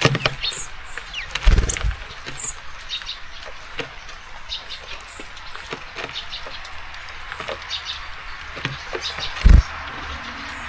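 Small songbirds at a seed feeder, giving short high chirps and calls, with scattered light taps and clicks of pecking and landing, over a steady hiss of rain. Two low thumps stand out, about a second and a half in and near the end.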